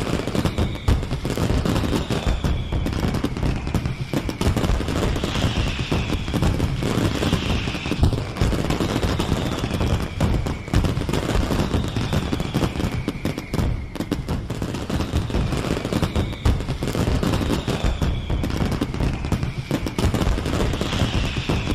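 Fireworks going off in a dense, continuous barrage of crackling bangs. A faint high whistle that falls in pitch recurs every second or two over the crackle.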